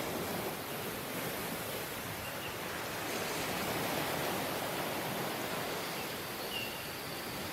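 Ocean surf on a beach: a steady wash of waves, swelling gently and easing off again.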